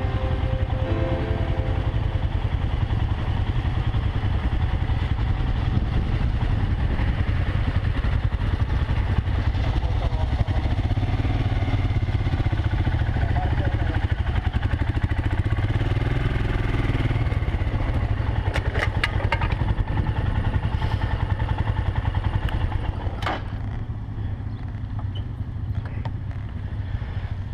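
Motorcycle engine running steadily on the move, a dense low rumble. A single sharp click about 23 seconds in, after which it is a little quieter.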